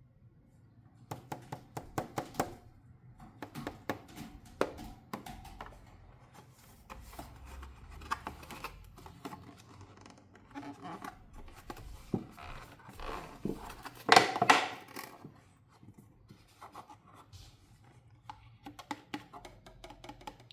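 Plastic toy pieces and packaging handled by hand: irregular sharp clicks and scratchy rustles, with a louder scratchy burst about fourteen seconds in.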